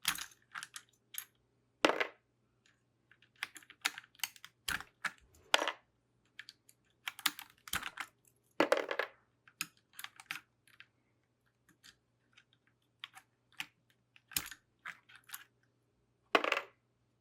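Plastic keycaps being pulled off a mechanical keyboard's switches: irregular sharp plastic clicks, with several longer clattering rattles as loose caps drop.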